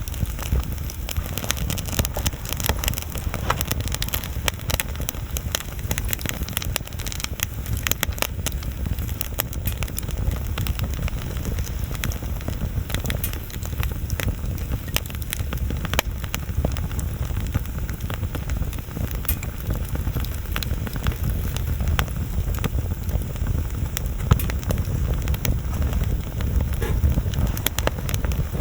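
Wood bonfire burning with constant, irregular crackling and snapping pops over a low steady rumble, with one sharper pop a few seconds before the end.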